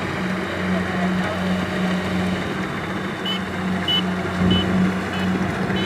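Kubota DC-70 combine harvester's diesel engine running steadily with a pulsing low hum. From about halfway through, a short high beep repeats about every 0.6 seconds.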